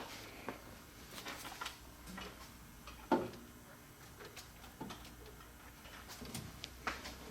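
Metal parts and hand tools being handled during disassembly: scattered light clicks and knocks, the loudest about three seconds in, over a faint low hum.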